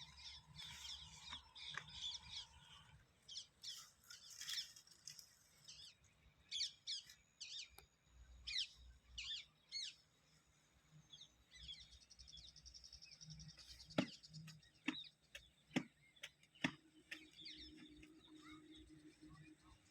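Birds chirping in short, quick high notes, busiest in the first half, with a steady high insect-like buzz partway through and a few sharp clicks in the second half.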